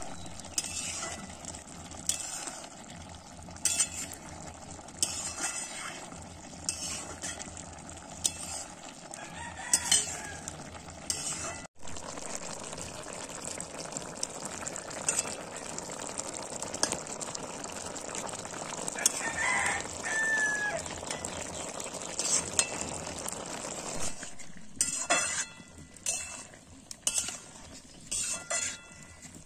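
Food frying in a pan with a steady sizzle and the scrape and clink of a utensil stirring, while chickens cluck and a rooster crows in the background. About 24 seconds in the sizzle drops away, leaving separate clinks of pots and utensils.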